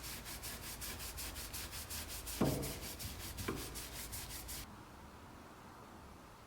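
Hand sanding of a wringer part: quick back-and-forth strokes, about five a second, that stop abruptly a little under five seconds in. A knock falls about halfway through.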